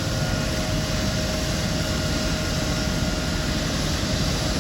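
Medical helicopter running, its turbine and rotor turning: a steady, dense rushing noise with a faint steady whine.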